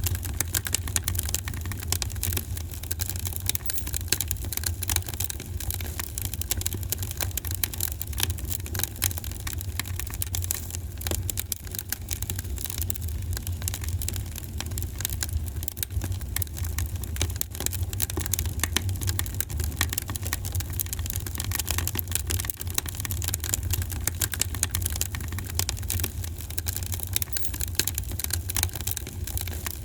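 Wood fire burning in a fireplace, crackling and popping continually over a steady low rumble.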